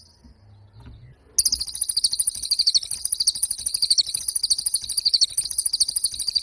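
A cililin songbird singing a long, very rapid, high-pitched trill that starts about a second and a half in.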